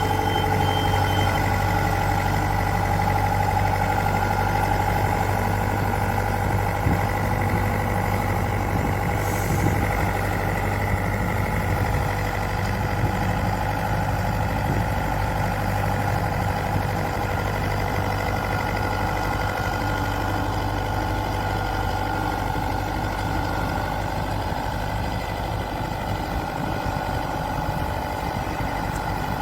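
Rice combine harvester running steadily: a constant engine hum with a steady machinery whine over it.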